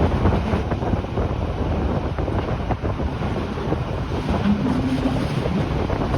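Rhaetian Railway regional train running along the line: a steady low rumble and rush of air with faint clicks from the track, and a brief low tone about four and a half seconds in.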